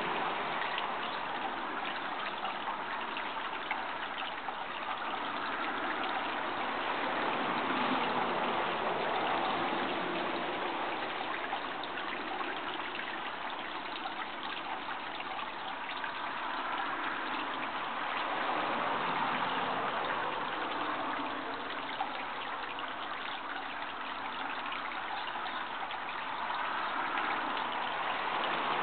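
Running water, a steady rushing babble that swells and eases slowly every several seconds.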